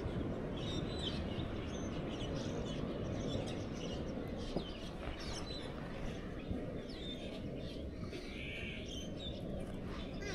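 Small birds chirping on and off over a steady low background rush of outdoor noise.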